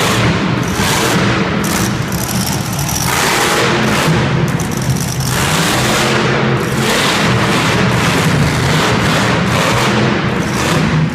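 Monster truck engine running loud, revving up and down repeatedly.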